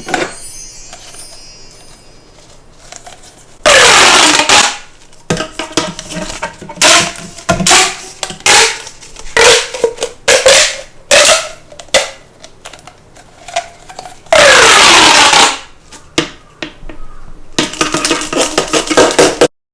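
Soft plastic spiky toy balls rubbed and squeezed against each other: a string of scratchy rubbing strokes. Two long, loud rubs, about four seconds in and again near fifteen seconds, carry a falling squeak. Near the end comes a quick run of short strokes that stops abruptly.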